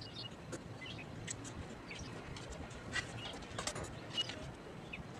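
Birds chirping, with short high calls scattered throughout, and a few sharp clicks around the middle.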